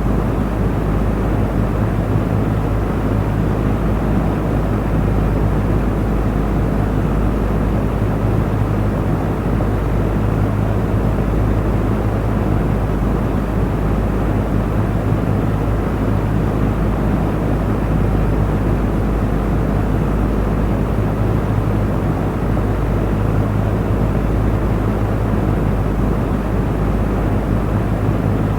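Electric cooling fan running steadily: an even rush of air over a deep, constant motor hum, with no change in speed.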